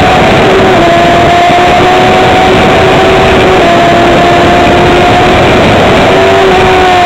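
Bimota YB4ei's Yamaha inline-four engine running flat out at steady high revs, its pitch held almost level with only slight wavers. Heavy wind rush on the onboard microphone.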